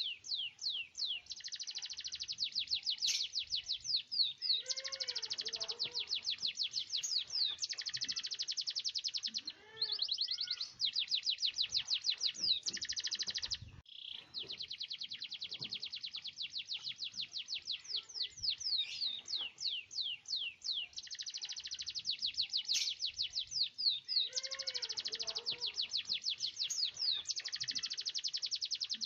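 Domestic canary singing a long, fast song of rapid trills and rolls, broken by short pauses about ten and fourteen seconds in.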